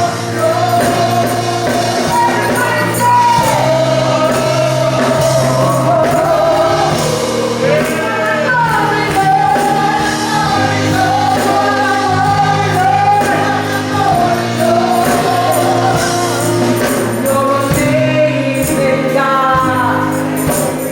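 Church praise team singing a gospel song with instrumental accompaniment: a lead voice carrying a wavering melody with vibrato over sustained low chords.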